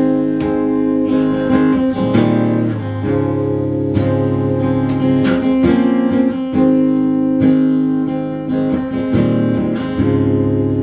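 Acoustic guitar strumming chords in a steady rhythm, the instrumental intro of a song before the singing comes in.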